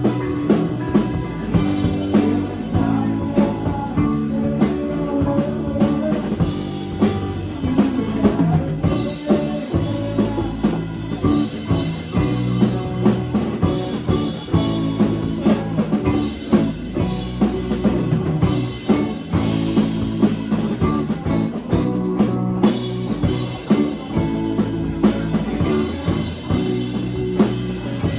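Live rock band playing an instrumental passage, with electric guitar over a drum kit keeping a steady beat.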